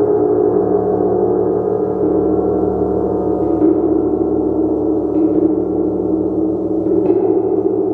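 A large gong played continuously, a dense, steady shimmering wash of many overlapping tones, renewed by soft strikes about three and a half, five and seven seconds in.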